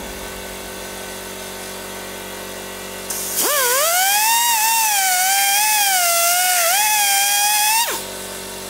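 Electric drill motor spinning up about three seconds in and running with a loud whine whose pitch sags and recovers as it bites, then winding down near the end. This is typical of drilling out bolt holes in cast iron.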